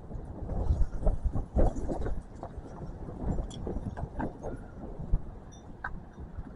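Wind gusting across the microphone, an uneven low rumble strongest in the first two seconds and easing after, with scattered rustles and knocks.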